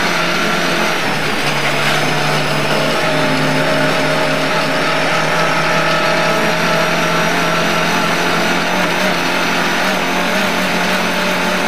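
Lada 1200 rally car's four-cylinder engine pulling at high revs, heard from inside the cabin. The pitch stays fairly steady with small shifts, over a constant rush of road and tyre noise.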